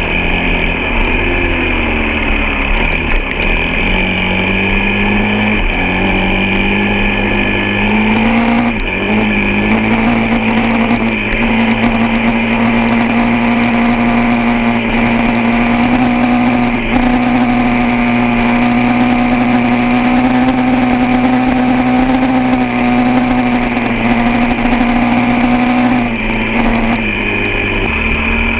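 Off-road motorcycle engine running under way. Its pitch dips and rises in the first several seconds as the throttle changes, then holds steady for a long stretch before falling off near the end.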